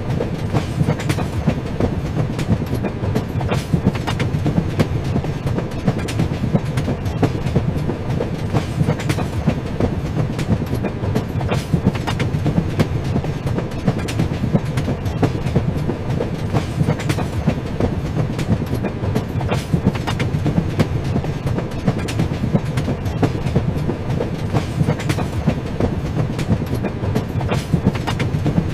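A moving train's wheels running over the rail joints in a steady clickety-clack, over a constant low rumble.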